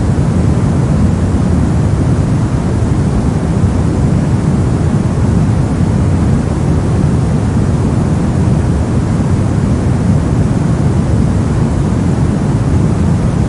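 Brown noise: a steady, even rumbling hiss, strongest in the bass and fading toward the treble, with no changes or events.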